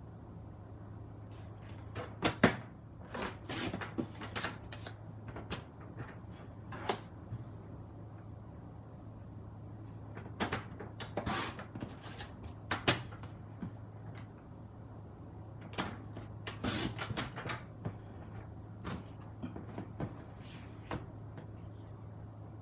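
Scattered, irregular clicks, taps and knocks of papercraft supplies and tools being handled on a desk, the sharpest about two seconds in, over a steady low hum.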